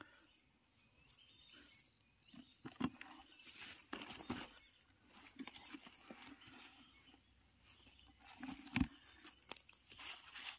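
Rustling and crunching of dry forest leaf litter and undergrowth underfoot and by hand, irregular, with a couple of heavier thuds, about three seconds in and near the end.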